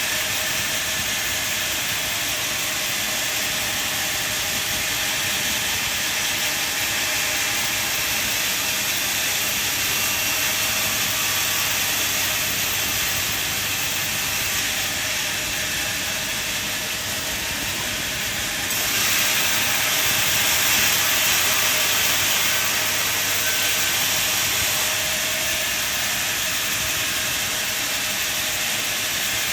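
Sawmill machinery running with a saw working through timber, a steady rushing noise without a clear beat. It turns slightly louder and brighter about 19 seconds in.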